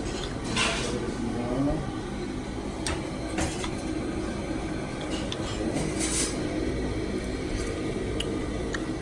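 Dishes and cutlery clinking at a restaurant table, scattered short clicks over a steady low room hum, with a brief louder clatter about six seconds in.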